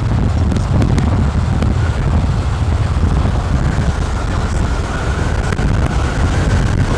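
Strong wind buffeting the microphone as a steady, loud low rumble, with a faint high whine through the middle and a few light clicks near the start.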